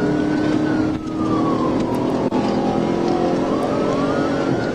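Police car siren on wail, slowly rising and falling about once every four seconds. Under it are the pursuing patrol car's engine and road noise.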